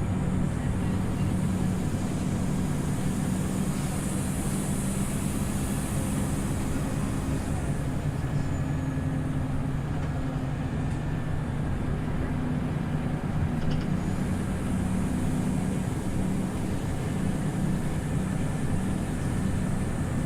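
Scania OmniLink CL94UB city bus under way, heard inside the cabin: a steady engine drone with road and running noise, holding an even pitch throughout.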